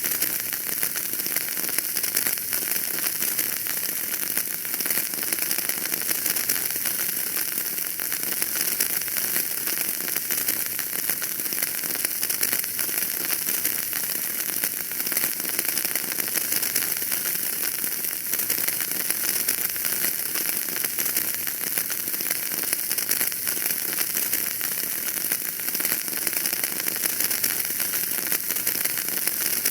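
Wood fire burning in a fireplace, crackling steadily with a dense run of small pops over a hiss.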